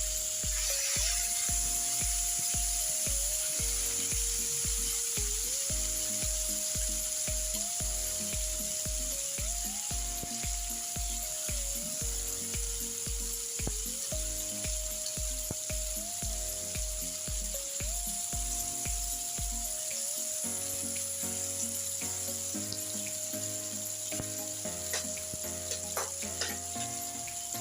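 Tofu sizzling steadily in hot oil, under background music whose low beat drops out about twenty seconds in.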